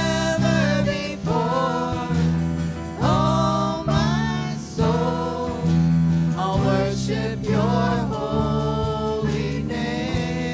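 Worship band and singers performing a contemporary worship song: sung phrases with held and sliding notes over guitar and sustained low chords.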